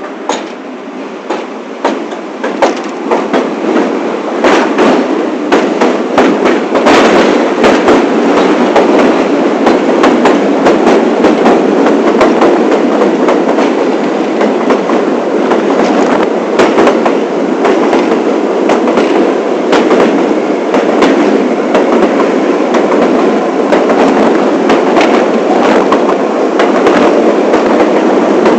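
New York City subway train on the 1 line running on the tracks, with a rapid clatter of wheel clicks. It grows louder over the first few seconds and then runs steadily.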